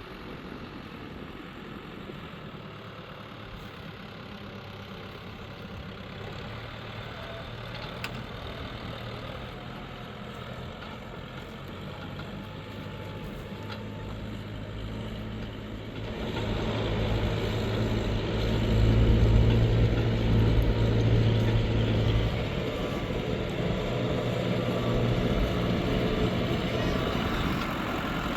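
New Holland TL100 tractor's diesel engine running steadily. It gets louder about sixteen seconds in and is loudest for a few seconds after that, as it takes on more load or revs.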